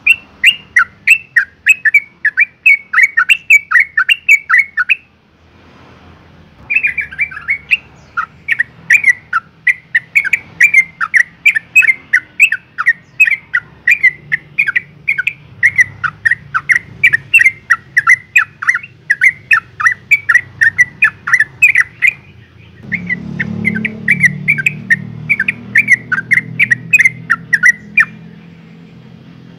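Yellow-vented bulbul calling: a fast run of short, falling chattering notes, several a second, broken by two brief pauses. This is the call of a female in breeding condition calling a male. A low rumble sits underneath in the later part.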